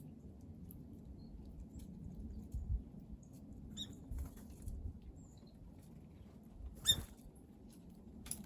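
Small wild birds at a water basin: scattered light taps and patter, with two short, high, sharp call notes, the louder near the end, over a low steady background hum.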